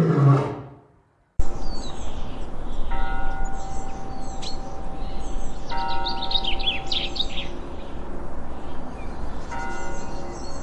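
The last second of a deep roar falling in pitch, then after a short gap, birds chirping and trilling over a steady outdoor rumble, with long ringing bell-like tones that hold for a few seconds at a time.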